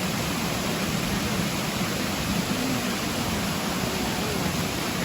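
Steady rushing of flowing water, like a stream or small waterfall, an even hiss with no breaks.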